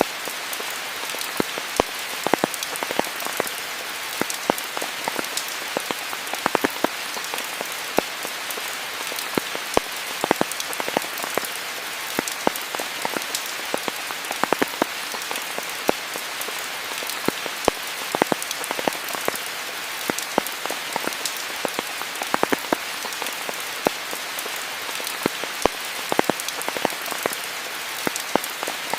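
Steady rain falling, a dense hiss with many close, sharp drop impacts at irregular intervals.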